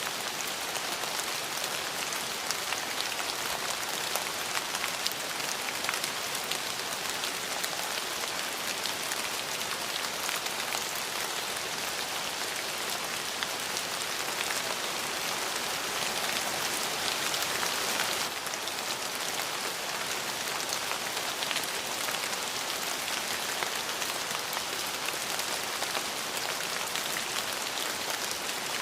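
Steady rain falling on a surface, an even hiss dotted with many fine drop ticks, swelling slightly about two-thirds of the way through.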